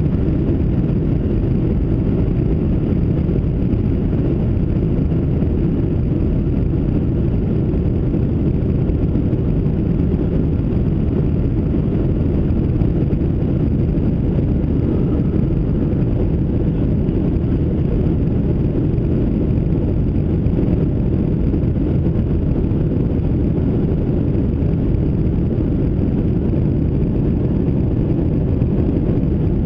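Steady roar of a Boeing 737-700's CFM56-7B engines and rushing air, heard from inside the passenger cabin, even and unchanging throughout.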